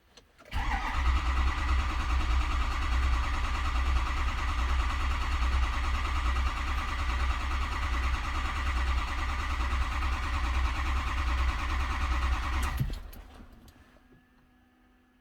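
Ford 6.0 Powerstroke V8 turbodiesel being cranked by its starter for about twelve seconds at an even pace without catching, then the cranking stops and dies away: the hard-start condition.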